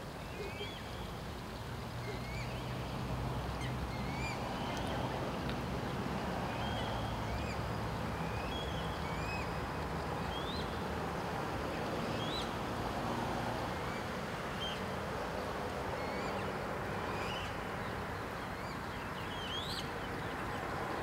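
Small birds calling: many short high chirps, some rising and some falling, scattered through the whole stretch. Underneath runs a steady hiss with a low steady hum.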